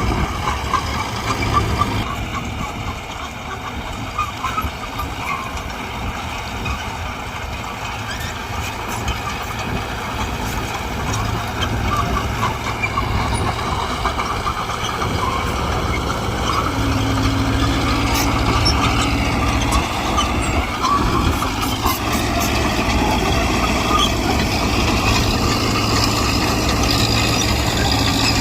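Mitsubishi BD2G bulldozer's diesel engine running steadily while working. It grows louder in the second half, and its pitch rises and dips briefly about two-thirds of the way through.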